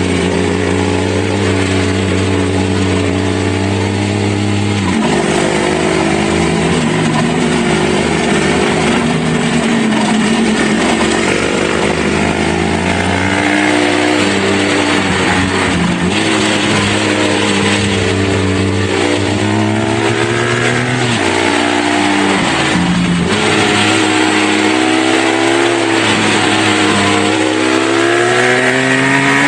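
Dirt bike engine running under changing throttle, its pitch stepping and gliding up and down. There is a brief drop in revs about three quarters of the way through, and the revs climb near the end.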